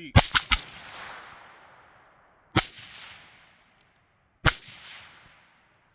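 Gunshots: a quick string of three shots right at the start, then two single shots about two seconds apart, each followed by an echo that trails off over about a second.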